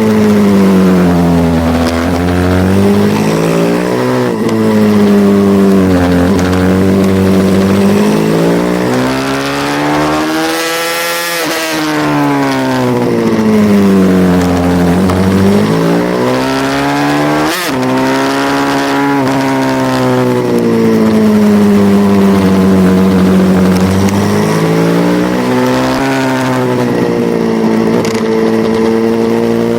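Racing pit bike's single-cylinder engine, its pitch climbing and falling over and over as it is revved hard out of corners and backed off into them, with short breaks at gear changes and a sudden sharp cut about two-thirds of the way through.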